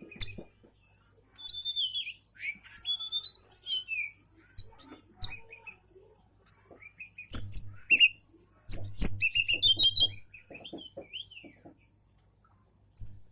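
Oriental magpie-robin (kacer) singing a varied song of clear whistles, rising and falling slurred notes and quick trills, delivered in phrases broken by short pauses, with sharp clicks among the notes.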